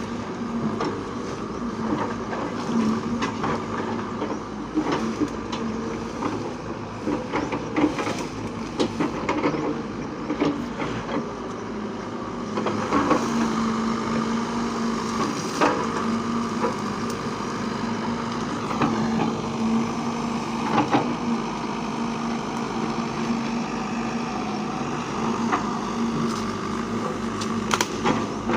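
A heavy diesel machine running steadily, with irregular knocks and clanks over the engine.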